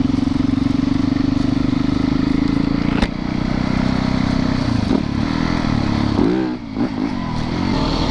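Yamaha YZ450FX single-cylinder four-stroke dirt bike engine running at a steady throttle, with one sharp knock about three seconds in. After about five seconds the revs start rising and falling in quick swings as the throttle is worked.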